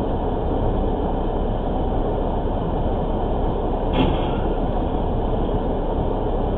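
Steady noise of a car driving, road and engine noise, with a brief faint knock about four seconds in.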